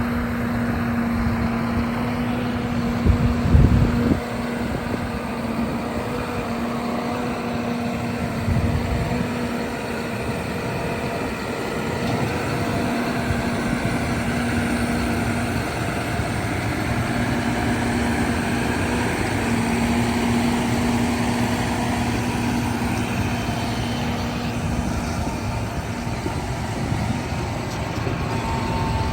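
John Deere 6195R tractor's six-cylinder diesel engine running steadily with a constant hum, broken by two brief low rumbles, about three and eight seconds in.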